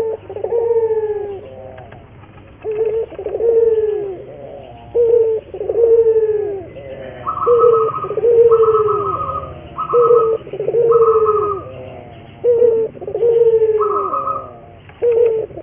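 Puter (domestic collared dove) cooing, repeating its phrase about every two and a half seconds: a short note followed by a longer, falling note. A higher, flat note sounds several times in the middle and once near the end.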